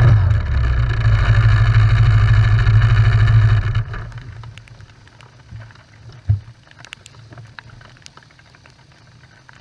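ATV engine running steadily at idle, then shut off about four seconds in, the sound dying away within a second. Afterwards it is quiet, with a few light ticks and one sharp knock.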